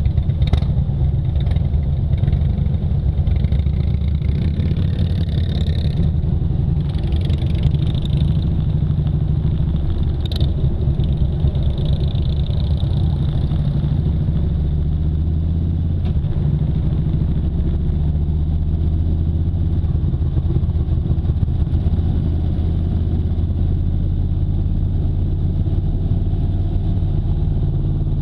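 Motorcycle engine running steadily, with a low, even note and no change in pitch.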